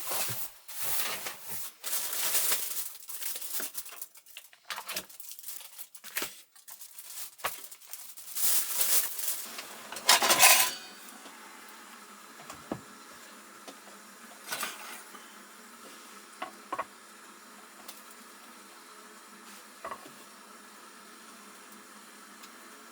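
Cookware and metal utensils being handled, clattering and clinking for about ten seconds, then only a few isolated clicks over a low steady background.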